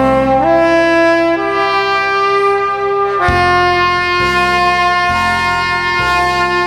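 Saxophone playing a slow melody in long held notes over a backing accompaniment with a bass line.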